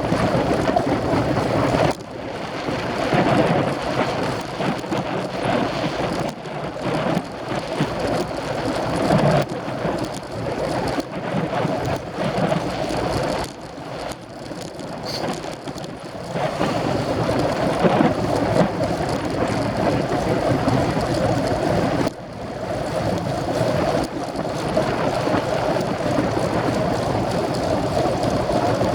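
Rushing, gusting noise of wind buffeting the microphone of a camera riding on a moving road bicycle, with brief lulls now and then.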